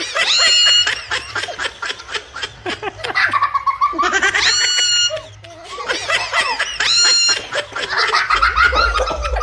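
Pet parrot imitating human laughter: rapid cackling broken by a shrill, rising call that comes back about every two to three seconds.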